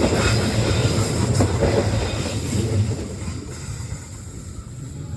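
CC 206 diesel-electric locomotive and its train rolling by, a low engine rumble with the clatter of wheels on the rails, fading away after about three seconds.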